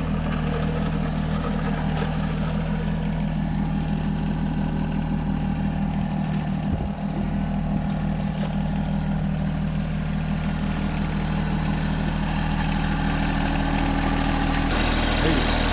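Compact diesel tractor engine idling steadily, its note shifting slightly near the end.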